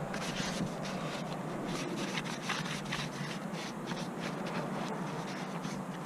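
Rapid, irregular scraping and rubbing strokes, several a second, over a steady low hum.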